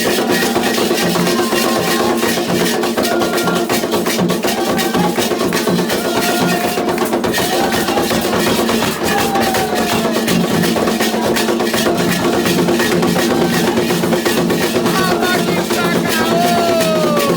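Candomblé ritual drumming: hand drums keep up a fast, steady rhythm while voices sing a chant over them.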